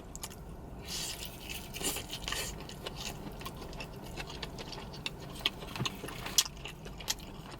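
Close-up eating sounds from chewing tandoori chicken: soft mouth noise with a few scattered wet clicks and smacks.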